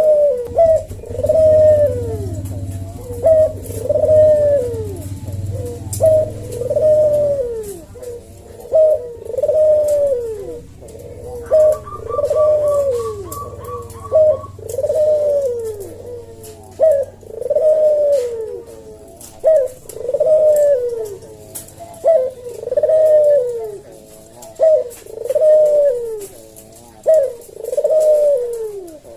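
Javanese puter (domestic ringneck dove) giving its slow "kuk-deruk" cooing call over and over, about one phrase every second and a half, each phrase sliding down in pitch.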